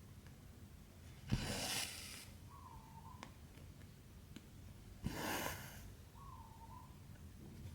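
Cotton embroidery thread being pulled through 14-count cross-stitch fabric: a rasping pull about every four seconds, each starting with a sharp tick as the needle goes through. Two full pulls are heard, each followed by a faint short squeak, and a third starts at the very end.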